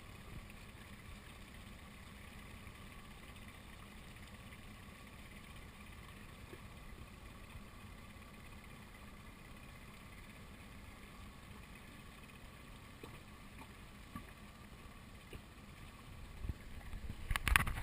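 Muffled, steady low rumble of a small boat on the water, heard through a GoPro's waterproof housing. A few louder knocks near the end come from the camera or housing being handled.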